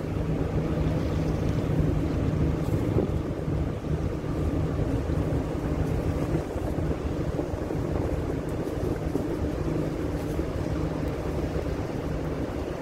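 Steady low drone of a ship's engines, with strong wind buffeting the microphone and water washing below.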